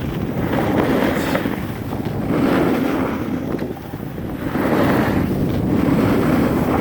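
Wind buffeting the microphone while riding down a ski slope, with a rushing hiss of snowboard edges on snow. It swells and fades, easing off about halfway through before building again.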